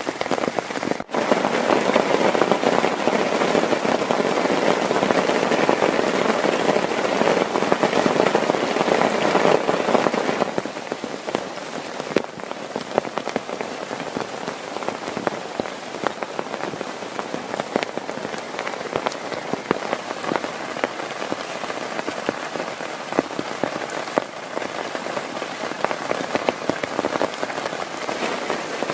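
Heavy rain pouring down, with many individual drops pattering sharply on a surface close by. It eases slightly about a third of the way through, then keeps falling steadily.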